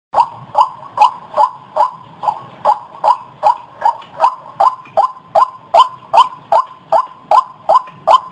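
White-breasted waterhen (ruak-ruak) calling, a short rising note repeated evenly about two and a half times a second.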